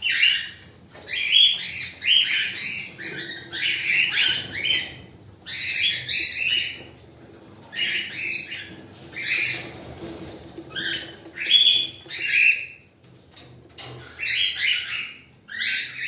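A cockatiel screeching: harsh, raspy squawks in rapid runs of several calls, with brief pauses between the runs.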